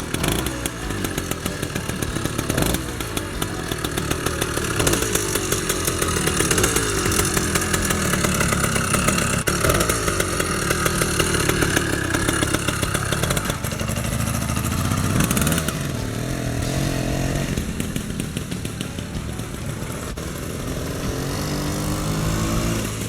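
80cc two-stroke gas bike engine with an expansion-chamber exhaust running, warming up, its revs rising and falling several times.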